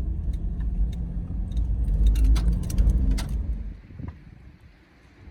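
A car's low rumble with metallic jingling and clicks over it, the jingling thickest in the middle; the rumble dies away about four seconds in.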